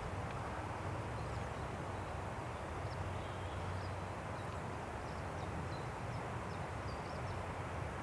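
Steady wind rushing through forest trees, with a low rumble, and faint, short, high bird chirps scattered throughout.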